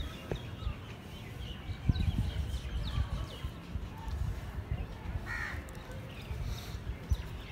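A harsh, caw-like bird call about five seconds in, over irregular low rumbling and faint chirps.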